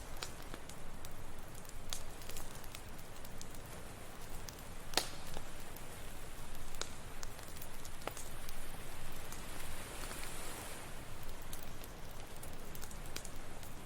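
Campfire crackling, with scattered sharp pops (the loudest about five seconds in), over a steady wash of ocean surf that swells briefly near the ten-second mark.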